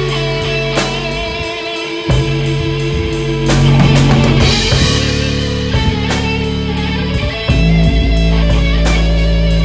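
Instrumental rock jam in A major: electric guitar, bass and drum kit playing together over a steady beat. The bass drops out briefly near the start, then comes back in.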